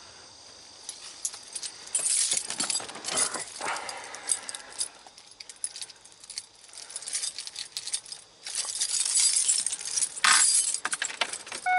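A bunch of keys jangling and clinking, with a run of sharp clicks and two stretches of rustling hiss, as the van's key is handled before starting. No engine is running yet.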